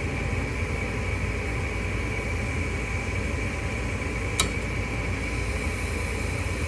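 An old furnace's draft-inducer (vent) motor runs with a steady hum. A single sharp click comes about four seconds in: the gas valve opening on an ignition trial, which then fails to light.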